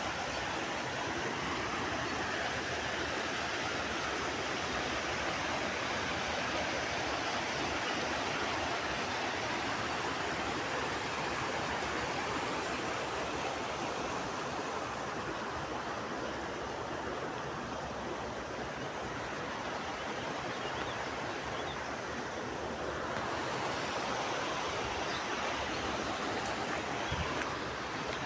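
Water rushing steadily, an even hiss with no separate events; it turns slightly duller for several seconds after the middle.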